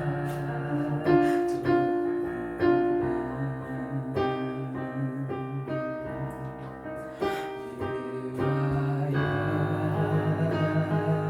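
Slow worship music played on a keyboard with piano sound: sustained chords with single struck notes over them, the chord changing every second or two.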